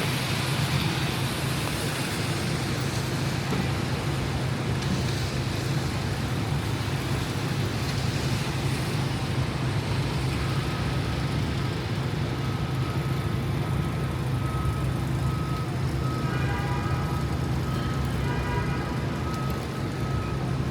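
Rainy city street ambience: steady hiss of rain and tyres on wet road over a low traffic rumble. From about halfway a high beep repeats again and again, and near the end two short pitched sounds, each several tones at once, sound one after the other.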